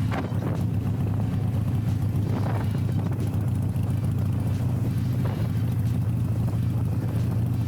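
A 2015 Harley-Davidson Iron 883's air-cooled 883 cc V-twin running through Rinehart slip-on exhausts, with a steady engine note while riding.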